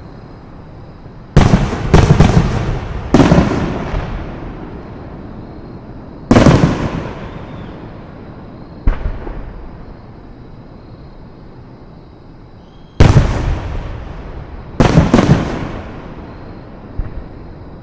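Fireworks bursting: about seven loud booms, some in quick pairs, each followed by an echo that dies away over a few seconds.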